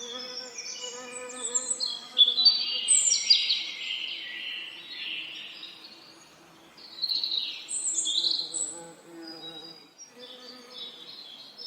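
Songbirds singing in quick, bright phrases over the steady hum of buzzing bees. The birdsong swells twice, and the buzz fades and returns.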